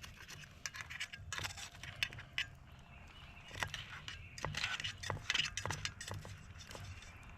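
Eating sounds: a run of small sharp clicks, clinks and crunches in two bunches, the first about a second in and the second around the middle.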